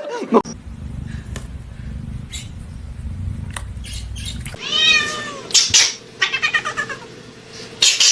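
A domestic cat meowing several times in short calls from about halfway through, after a low rumbling noise in the first half.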